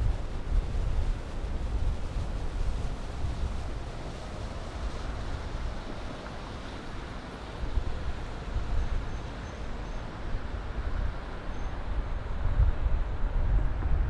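Distant city traffic as a steady wash of noise, with wind gusting on the microphone as an uneven low rumble that comes and goes.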